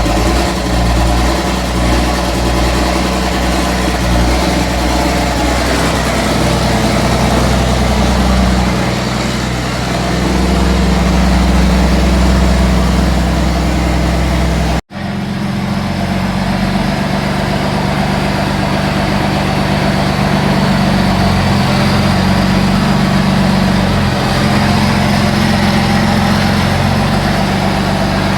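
A motor-vehicle engine running steadily at idle, in two stretches split by an abrupt cut about halfway through.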